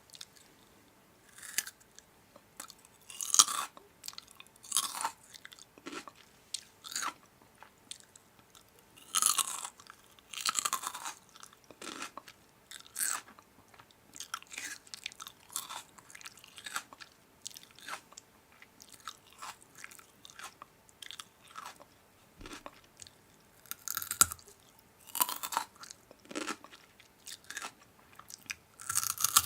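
A person biting and chewing crunchy food, with irregular crisp crunches and short pauses between bites.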